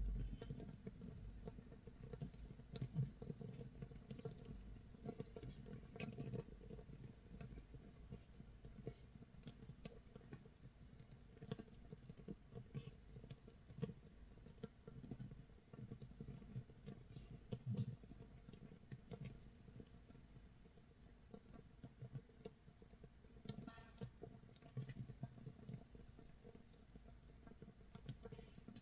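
Makgeolli starter mash (mitsul) fermenting in a crock 24 hours in, its bubbles popping in a faint, irregular crackle and patter of tiny clicks. It sounds like rain or a crackling wood fire.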